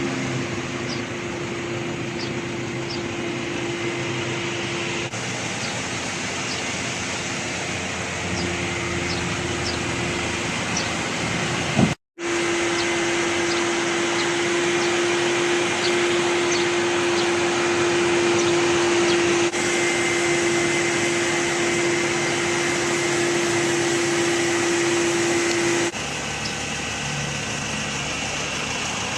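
A machine running steadily: a constant hum with one held tone over a rushing noise. It drops out for a moment about twelve seconds in, and near the end the tone stops while the rushing noise carries on.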